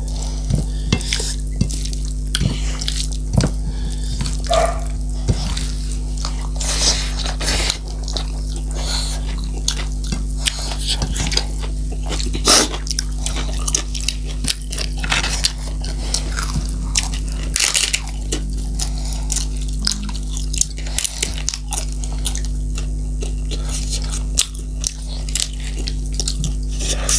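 Close-miked eating: chewing and wet mouth clicks and smacks, scattered irregularly through a meal of sukuti (dried meat) and pumpkin curry, over a steady low hum.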